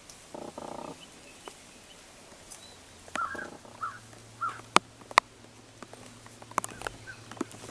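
Wild birds calling: one harsh call about half a second in, then three short calls between about three and four and a half seconds in. Scattered sharp taps, like raindrops, sound in between.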